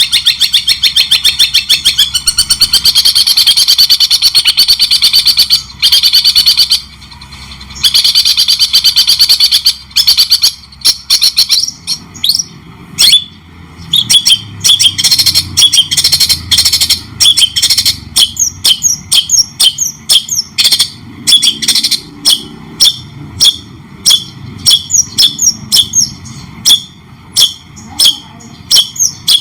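White-rumped shama singing shrike-style (cendet) song: a long, fast, buzzing trill for about the first ten seconds with one short break, then a run of sharp separate notes repeated several times a second.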